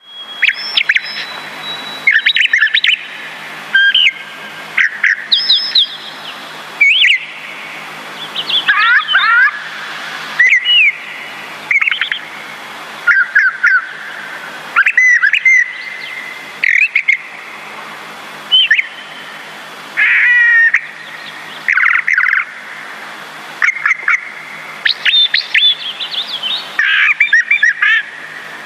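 Birds chirping and whistling in many short, rapid calls, in bursts that start and stop abruptly over a steady background hiss.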